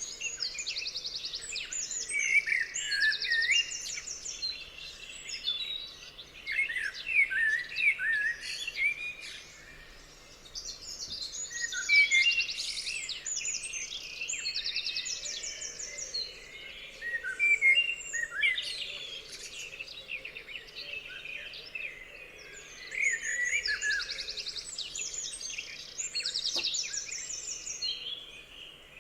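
Several songbirds singing at once: overlapping chirps and whistles, with fast trills coming back again and again.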